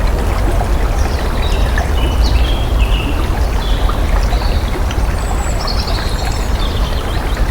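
Water running steadily with a deep rumble underneath, while small birds chirp repeatedly above it.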